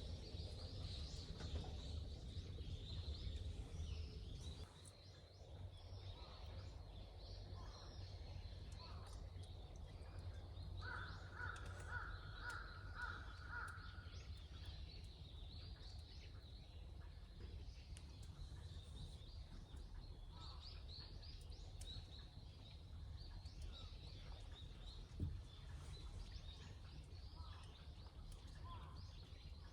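Outdoor ambience of birds calling: scattered high chirps throughout, and a short run of repeated calls about a third of the way in, over a low steady rumble. A single dull thump comes near the end.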